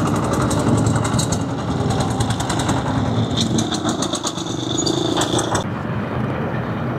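A small motor vehicle's engine running close by with a fast, even ticking beat; the sharper ticking cuts off abruptly about five and a half seconds in, leaving a lower rumble.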